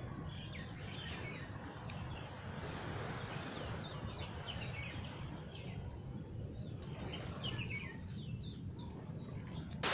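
Small birds chirping in quick, repeated short calls over a steady low background rumble. Right at the end a sudden loud rush of noise cuts in.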